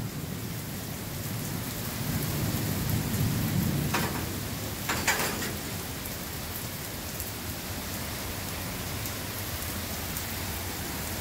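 Heavy rain pouring steadily, with a low rumble of thunder fading in the first few seconds. Two brief taps come about four and five seconds in.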